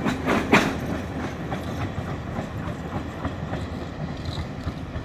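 Alaska Railroad passenger train's last car rolling past and away, its wheels clattering on the rails. A couple of sharp clacks come about half a second in, then the rumble fades as the train moves off.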